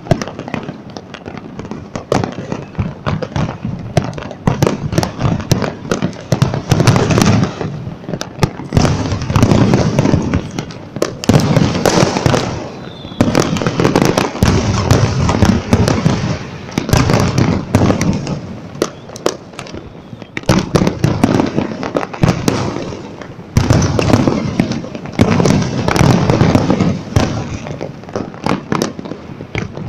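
Fireworks display: a dense, continuous run of bangs and crackling that swells and eases in waves every few seconds.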